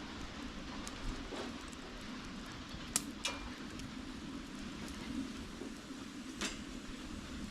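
Campfire burning with a steady low rush and a few sharp crackling pops, the loudest about three seconds in.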